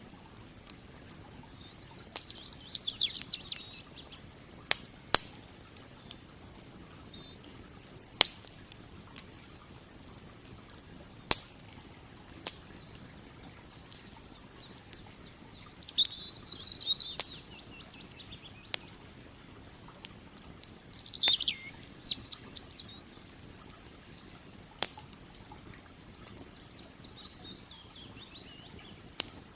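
Campfire crackling with sharp, irregular wood pops, while a songbird sings short trilled phrases every few seconds over a faint steady rush of creek water.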